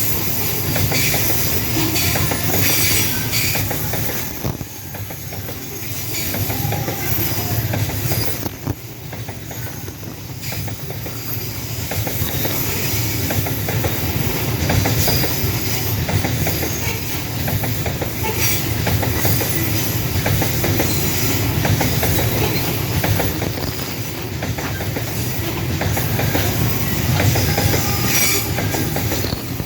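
Long Babaranjang coal train's loaded hopper wagons rolling steadily past, wheels clattering over rail joints, with a high-pitched wheel squeal coming and going.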